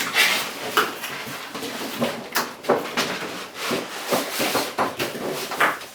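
A toy's cardboard box being handled and pried open, with irregular scraping, rustling and tapping.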